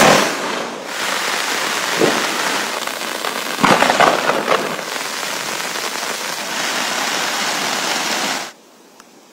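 Heavy rain hissing down, with louder sharp crackles at the start, about two seconds in and a cluster around four seconds in. It cuts off abruptly near the end, leaving a faint hiss.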